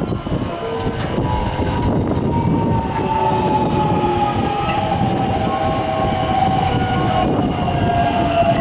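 Electric commuter train running along the platform: a steady rumble of wheels on rails with a motor whine that slowly falls in pitch.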